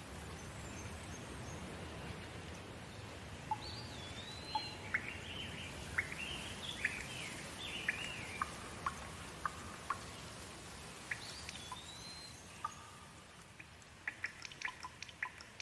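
Steady rain with a bird calling a string of short chirps and whistles through the middle. Near the end the rain thins and single drips ticking.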